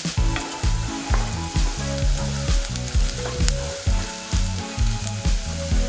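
Chopped onion and garlic sizzling in hot butter and oil in a nonstick kadai, with a wooden spatula stirring and scraping the pan in repeated strokes.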